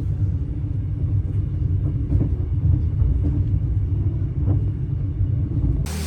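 Low, steady rumble of a moving vehicle heard from on board, with a few faint clicks; it cuts off suddenly near the end.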